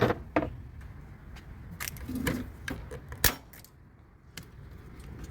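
Scattered metal clinks and knocks from a wrench and socket being worked on the bolts that hold a washing machine's transmission, the loudest knock about three seconds in.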